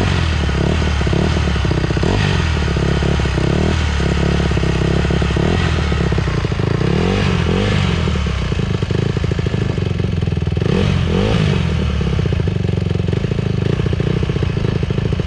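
Dirt bike engine running steadily, its revs rising and falling briefly twice, about midway and again near two-thirds through, as a beginner works the throttle gently.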